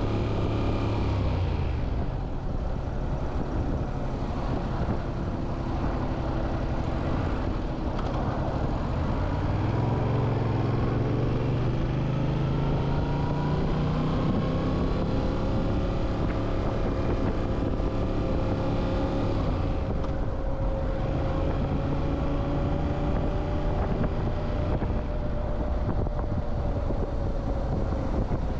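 Motorcycle engine running on the move, with steady wind and road noise over it; the engine note rises between about ten and fourteen seconds in as it speeds up.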